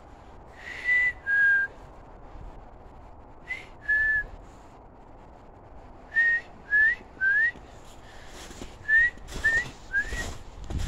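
A person whistling short single notes, several sliding upward, in small groups of one to four with pauses between.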